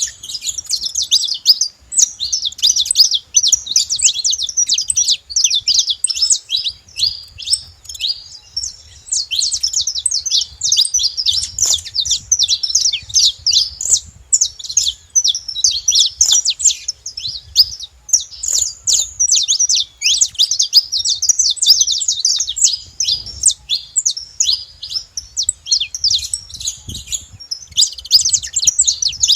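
A flock of saffron finches calling and singing together: a dense, continuous chatter of many overlapping high, quick chirps.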